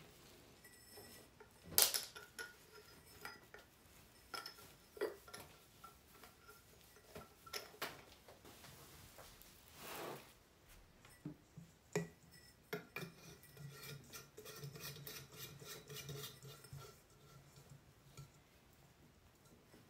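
Light metallic clinks, taps and knocks as metal table-lamp parts are handled, some leaving short ringing notes. A sharp clink about two seconds in is the loudest.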